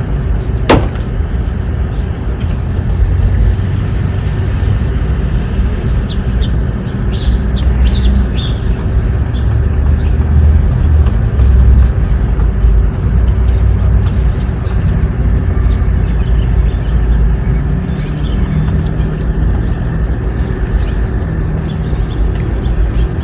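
Small birds chirping, many short high chirps scattered throughout, over a steady low rumble. One sharp click about a second in.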